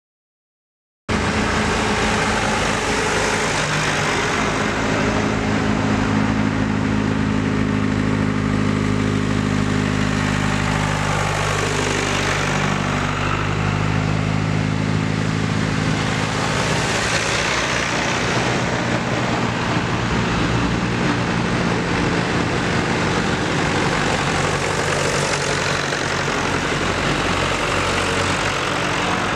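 Tractor engines running steadily, starting abruptly about a second in after a brief silence; the engine note shifts in pitch a few times as the engines change speed.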